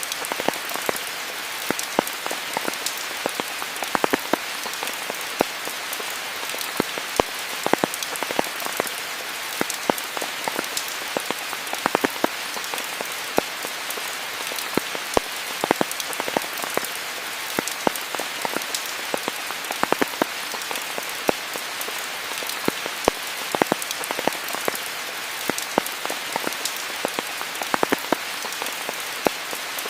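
Steady rain in a rainforest: an even hiss of rainfall with many sharp, close drops spattering throughout.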